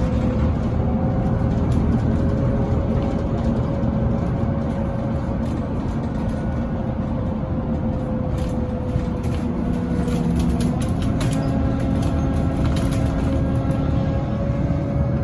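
Scania Citywide LFA city bus driving, its engine running steadily with a pitch that drifts gently up and down over a low rumble. Light rattles and clicks come through about halfway through.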